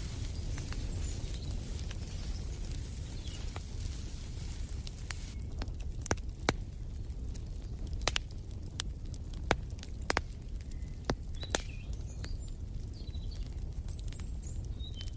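Wood fire in a fireplace crackling: irregular sharp pops and snaps, thickest around the middle, over a steady low rumble of the flames. Faint high bird chirps come through now and then.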